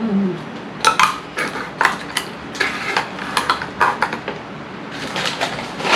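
Rustling and light clicking of fast-food takeout packaging being handled and set down, in a quick irregular run of short crinkles and taps.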